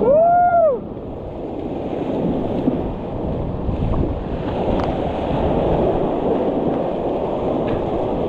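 High-water river rapids rushing steadily, with a short, high-pitched yell that rises and falls in the first second.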